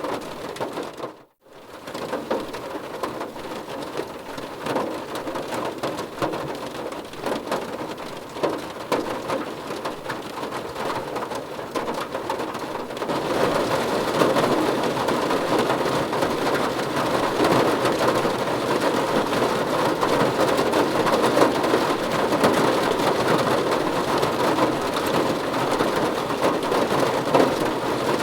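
Steady rain pattering on a car's roof and windows, heard from inside the car. The sound drops out for a split second about a second in, and the rain grows heavier and louder about halfway through.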